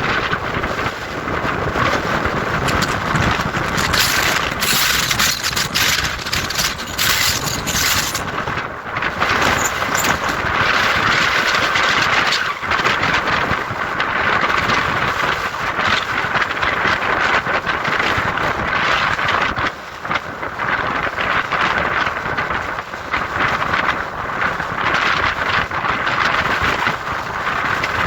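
Strong wind buffeting the microphone on a mountaintop: a loud, continuous rush that swells and eases in gusts.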